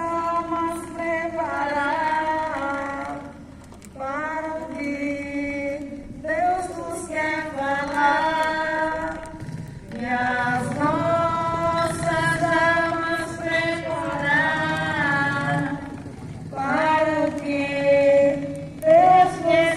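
A group of worshippers, women's voices to the fore, singing a hymn without instruments, in long held phrases with short breaths between them.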